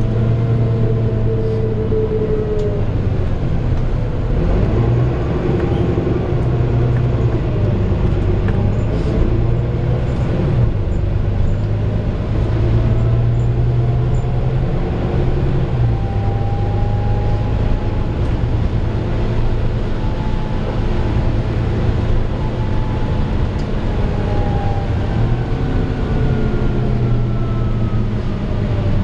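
Volvo B9TL double-decker bus's six-cylinder diesel and drivetrain heard from on board while under way. The engine note steps up and down several times as it changes gear, with thin whines above it rising and falling.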